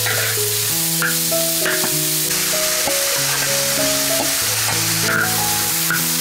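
Chopped pickled vegetables sizzling in a hot wok as they are stir-fried with a spatula, with a few sharp scrapes of the spatula on the pan. Background music with slow held notes plays over it.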